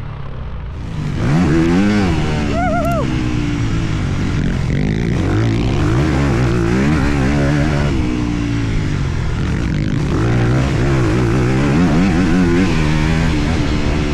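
Four-stroke motocross bike engine revving hard on track, its pitch climbing and dropping again and again with throttle and gear changes. It gets louder about a second in.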